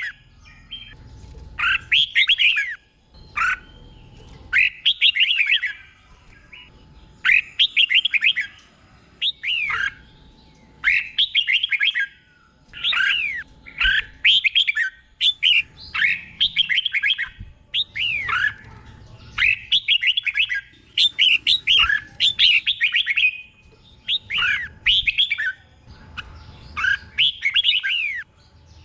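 Red-whiskered bulbul singing: short phrases of bright, gliding whistled notes, often falling in pitch, repeated every second or two and often doubled back to back.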